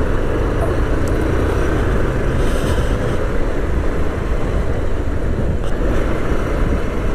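Motorcycle on the move, heard from the rider's GoPro microphone: a steady rush of wind and road noise over the running engine.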